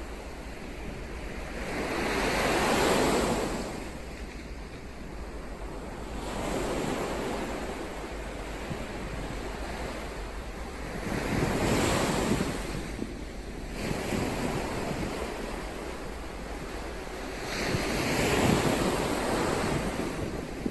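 Ocean waves washing onto the shore, the surf swelling and falling back in slow surges roughly every five to six seconds: three strong ones and a weaker one between the first two.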